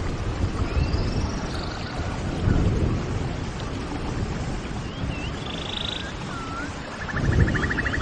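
Birds calling over a steady low rumble: short rising and falling whistled chirps, and a fast rattling trill about five and a half seconds in, with another near the end.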